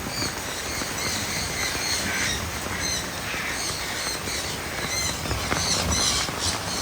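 Aviary birds squawking and calling repeatedly over the steady hiss of rain.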